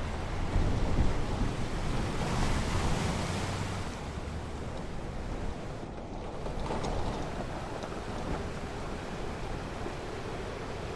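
Ocean surf breaking and washing on a beach, with a low rumble underneath. One wave swells louder about two seconds in and fades, and a smaller one follows later.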